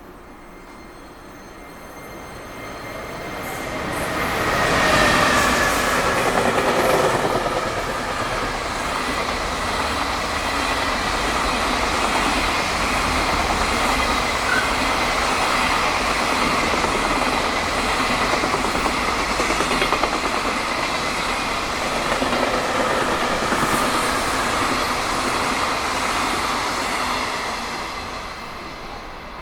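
JR Freight EF210 electric locomotive hauling a high-speed freight train past: it comes up loud about four seconds in, then the long line of freight wagons rolls by steadily and fades near the end.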